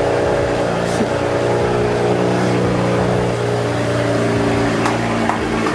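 BMW 335i's turbocharged inline-six idling steadily, running good again now that a new crankshaft position sensor has cured its no-start and limp mode.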